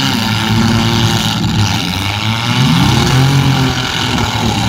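Several demolition-derby compact cars' engines revving hard together, their pitch rising and falling as the cars push and spin in the mud, over a rough wash of noise.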